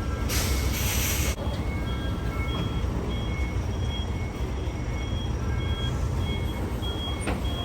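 A reversing alarm beeping steadily about twice a second, most likely from a cargo truck backing into position on a ferry's vehicle deck, over a constant low engine rumble. A short burst of hiss comes just after the start, before the beeping begins.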